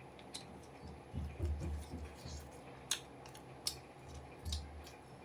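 A person chewing food close to the microphone, with soft wet mouth sounds and a few sharp clicks.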